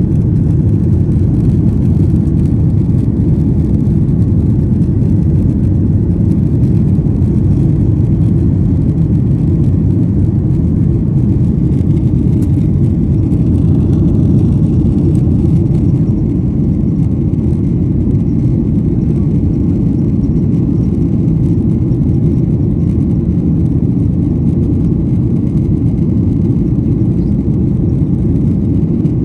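Steady low rumble of airliner cabin noise in flight, engines and airflow heard from inside the cabin, dipping slightly about halfway through.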